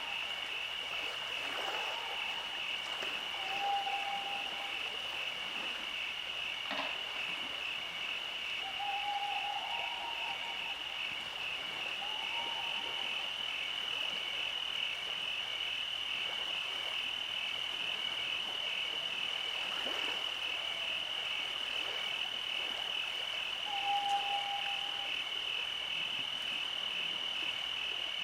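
Night chorus of insects: a continuous, finely pulsing high trill. Over it, every few seconds, a short, low steady-pitched call from a frog or night bird sounds.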